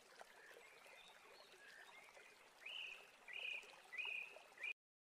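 Faint bird calls over a steady hiss. In the last two seconds, about four louder short calls come, each rising then holding, repeated roughly every 0.7 seconds, before the sound cuts off suddenly.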